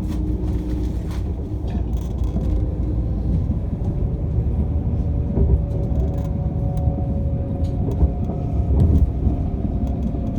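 Passenger train in motion, heard from the train: a steady low rumble of running noise with a faint whine that shifts slowly in pitch.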